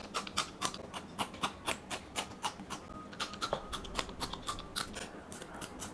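Raw green chillies being bitten and chewed into, a rapid irregular run of crisp crunching snaps, about three or four a second.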